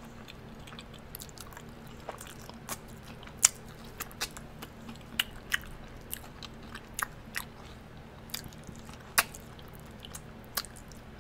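Close-miked chewing and lip-smacking of sauced fried chicken wings: scattered wet clicks and smacks at irregular intervals over a faint steady hum.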